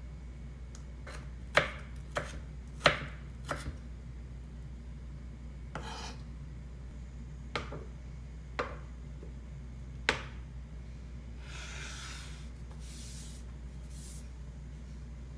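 Knife chopping on a cutting board: about eight separate, irregular chops, the loudest in the first three seconds, then a few brief scraping sounds near the end, over a steady low hum.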